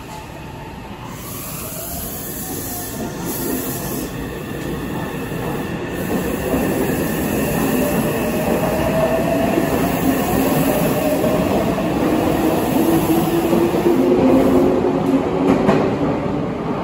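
Meitetsu 2000 series μSKY electric train pulling away from a standstill in an underground station, growing steadily louder as its cars pass. The traction motors' whine rises in pitch as it gathers speed, over the rumble of wheels on rail.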